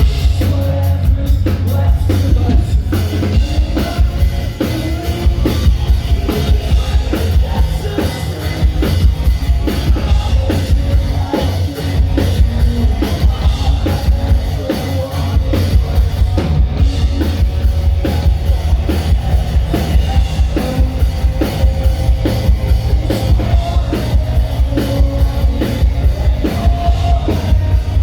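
Live rock band playing at full volume: a driving drum kit with steady, rapid hits over heavy bass and sustained distorted-sounding instrument layers.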